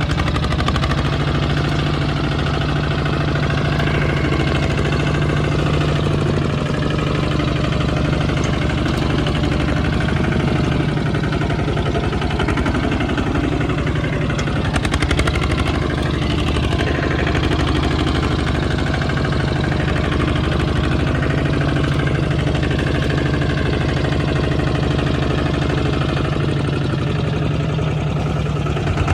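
Kubota tractor's diesel engine running steadily, with a faint wavering whine above it.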